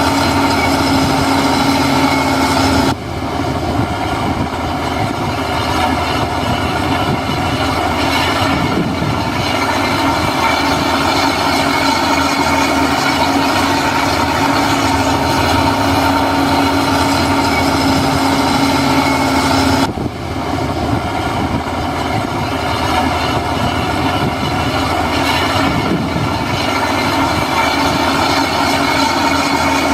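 Heavy earthmoving machinery's diesel engine running steadily, with a steady whine over it; the sound shifts abruptly about three seconds in and again about twenty seconds in.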